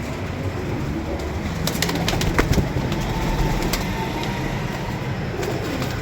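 Pigeons cooing, with a handful of sharp clicks about two seconds in.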